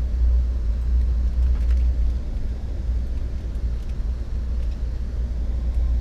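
Low, steady rumble heard inside an Amtrak passenger car as the train rolls slowly along.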